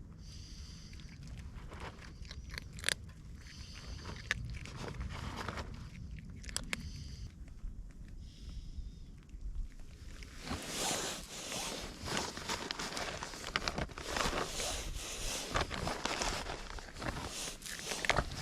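Cats crunching dry cat food: scattered sharp crunches at first, becoming denser and brighter from about halfway through.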